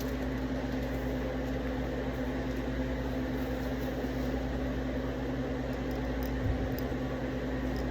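Steady low hum of a running household appliance or fan, with a constant low tone under an even hiss.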